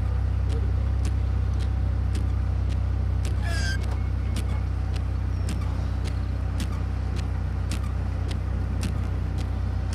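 Steady low rumble of a car engine running, heard from inside the cabin, with faint regular ticks.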